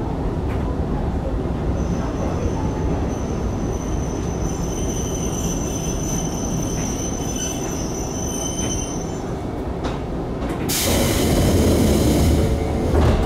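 An Izuhakone Railway 5000 series electric train runs slowly past on the next track with a steady rumble and a thin, high wheel squeal. About eleven seconds in it comes to a stop with a loud hiss of air.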